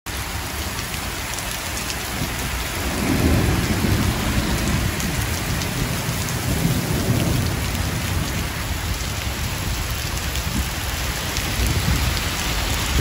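Heavy rain pouring and splashing onto a flooded street in a thunderstorm, a dense steady hiss. Low rumbles swell up a few times, and near the end a car splashes through the standing water.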